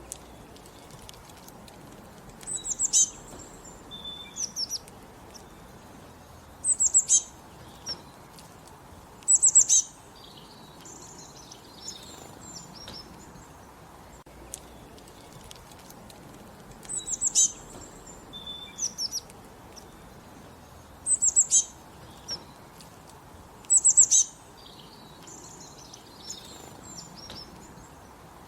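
Songbirds singing in the countryside: loud, high-pitched phrases of several rapid notes every two to three seconds, with softer chirps between them. The same run of phrases comes round a second time about halfway through.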